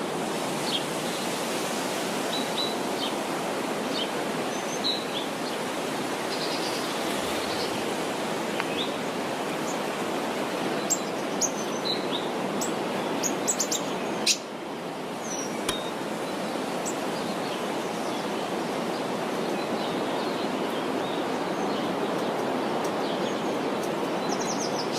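Steady rush of river water, with birds chirping now and then above it; the rush dips briefly about two-thirds of the way through.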